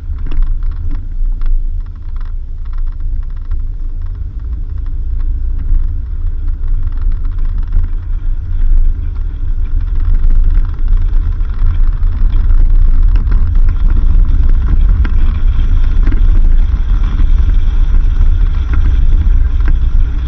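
Car driving along a dirt road: a continuous low rumble of engine and road noise, with a few sharp clicks in the first couple of seconds, growing somewhat louder about eight seconds in.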